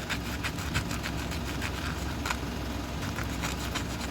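Hand work on a rusty automatic-transmission manual valve lever being cleaned and freed: a quick run of short scratchy strokes, thinning out after about two seconds, over a steady low hum.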